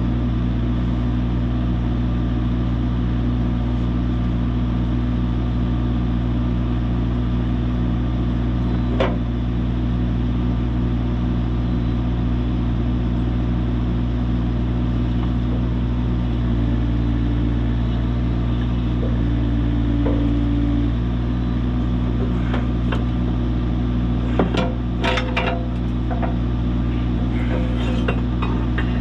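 A heavy machine's engine idling steadily while it holds an engine on its lift, with two short higher tones near the middle. A few sharp metal clanks sound about nine seconds in and again in a cluster near the end as the engine block is worked down onto its mounts.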